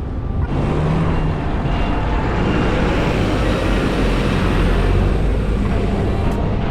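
Steady rushing noise with a deep rumble that sets in suddenly about half a second in: wind over the microphone and street traffic while riding a bicycle in the city.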